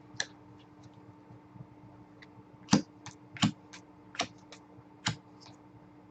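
Irregular sharp clicks and taps of trading cards being flipped through and set down on a table, about a dozen, the loudest a little under three seconds in and again half a second later.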